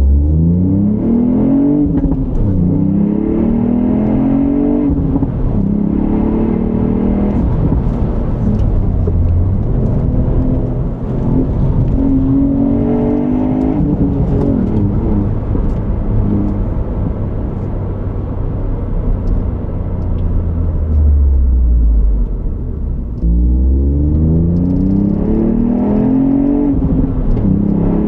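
Ford Fiesta ST's 1.5-litre EcoBoost turbocharged three-cylinder engine and stock exhaust pulling hard through the gears: its pitch climbs several times and drops back at each change. Around the middle it settles into a lower, steadier drone before climbing again twice near the end, over steady tyre and road noise.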